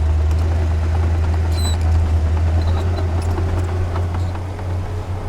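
Heavy diesel engine of earthmoving machinery running steadily, a strong low hum.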